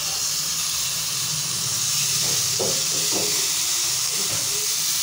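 Chicken tikka pieces frying in oil and spice masala in a karahi over a low flame: a steady, even hiss.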